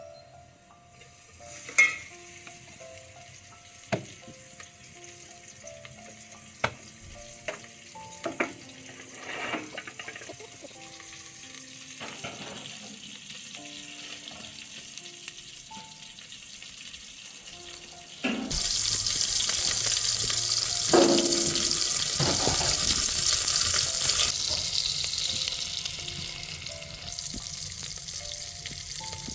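Faint background music with scattered light kitchen knocks. About two-thirds of the way in, food goes into hot oil in a cooking pan and starts sizzling loudly, then eases off over the last few seconds.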